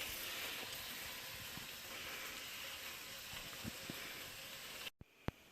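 Bacon frying in a pan on the stove: a steady sizzle with a few faint pops, which cuts off abruptly near the end.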